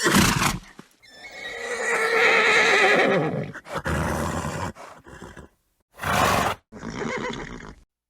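Horse neighing: a short burst at the start, then a long wavering whinny about a second in, followed by several shorter horse calls separated by sudden silences.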